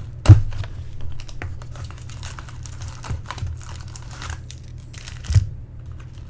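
2010 Bowman Draft baseball cards being handled and flipped through: a run of light clicks and rustles, with sharper taps about a third of a second in and about five seconds in, over a steady low hum.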